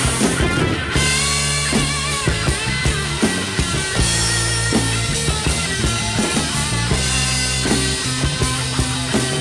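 Drum kit played along to a rock song with guitar, a steady beat of drum hits over sustained band notes.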